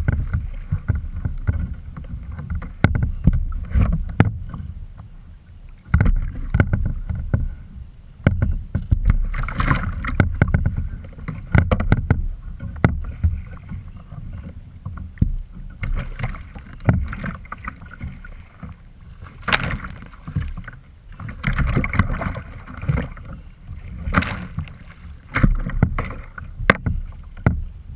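Water splashing around a kayak in irregular bursts, with sharp knocks against the hull.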